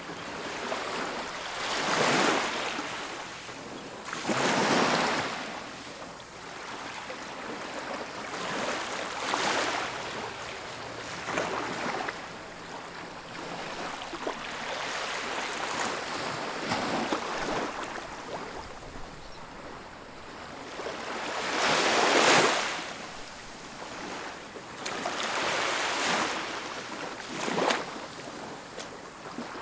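Ocean surf: waves breaking and washing up on a sandy beach, swelling and fading every few seconds, the loudest wave breaking about two-thirds of the way through.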